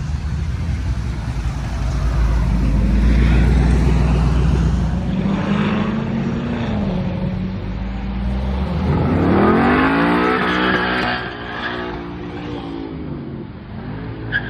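Car engine running with a deep rumble, then revving about nine seconds in, its pitch climbing steeply before settling back.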